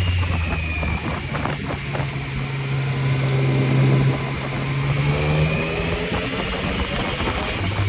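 Yamaha MT-09's inline three-cylinder engine heard from the rider's seat under way. The engine note rises just after the start, holds and climbs slowly for several seconds, then falls back near the end, over steady wind rush.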